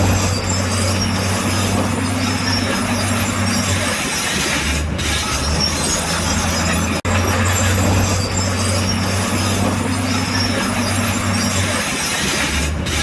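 Crawler bulldozer working: its diesel engine running with a steady clatter and squeal from the steel tracks, the engine note easing off briefly around four seconds in, and a momentary break about seven seconds in.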